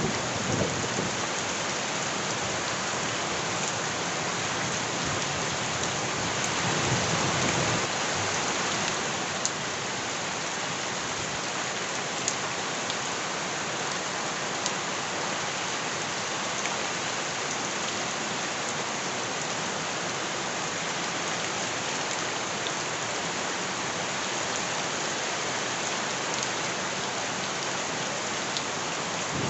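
Steady heavy rain falling on surfaces, swelling louder for a couple of seconds about six seconds in, with a few sharp drip ticks here and there.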